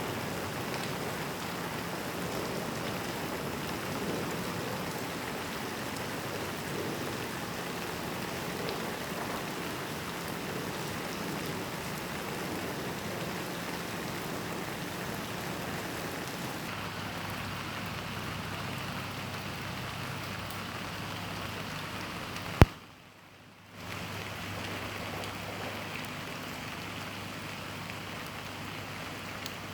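Steady rain falling, an even hiss. About three quarters of the way in there is a sharp click and about a second of near quiet, then the rain resumes.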